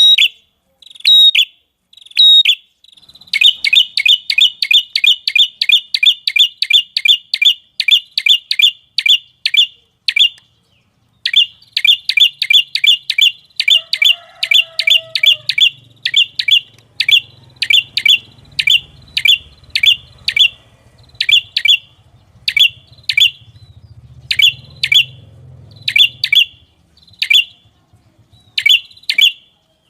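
A small songbird repeating sharp, falling chirps in quick runs of about four a second. After a short pause the chirps come more slowly, spaced out towards the end.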